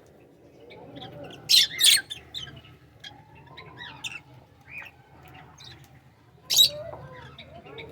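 Aviary birds chirping, with loud shrill calls twice in a row about one and a half seconds in and once more near the end.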